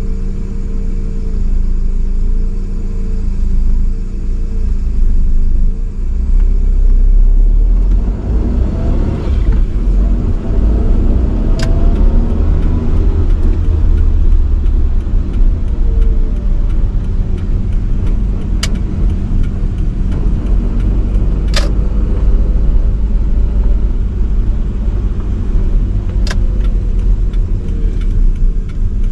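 A 1985 Nissan Sunny B12 under way: steady low engine and road rumble that grows rougher and louder about a third of the way in. A few short sharp clicks stand out over it.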